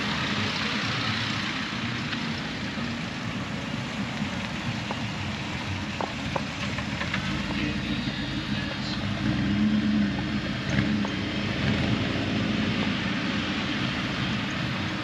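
Cars driving past one after another as they leave a show, with their engines running. The low engine sound grows louder about ten seconds in as one passes close.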